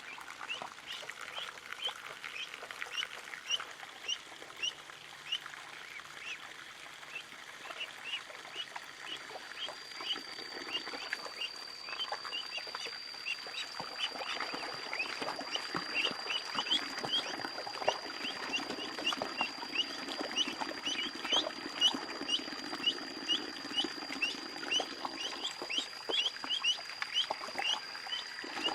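Ducklings peeping: a continuous run of short, high chirps, many birds overlapping. A steady high-pitched tone joins about a third of the way in.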